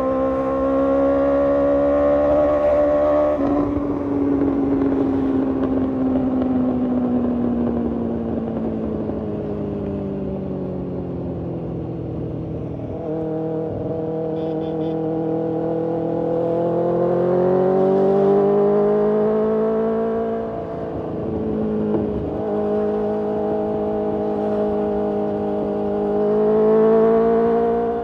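BMW S1000RR's inline-four engine heard from on board while riding. It holds a steady note at first, then after a few seconds slides slowly down in pitch for about ten seconds as the bike rolls off, then climbs again under throttle with a brief dip and a final rise near the end.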